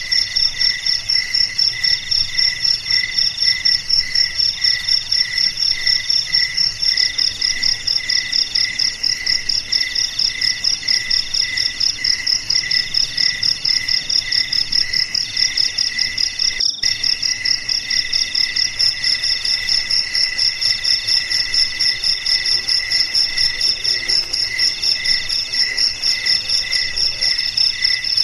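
Several crickets chirping at once in overlapping, rapidly pulsing high-pitched trills at a steady level. One short click comes about halfway through.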